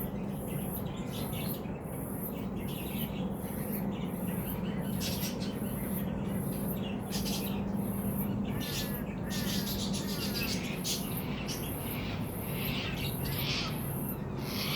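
Birds chirping and calling, with a few whistled glides near the middle, over an insect's high pulsing trill that repeats about twice a second and a steady low hum.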